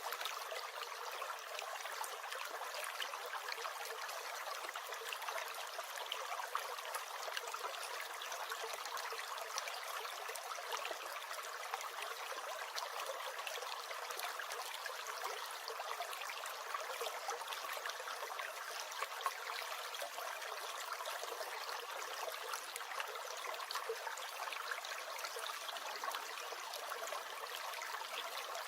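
Small stream gurgling and trickling steadily, a constant rushing with little splashes throughout.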